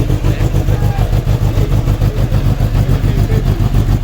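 Kawasaki Ninja H2's supercharged inline-four engine idling loudly through its exhaust, a steady, pulsing low rumble with no revving.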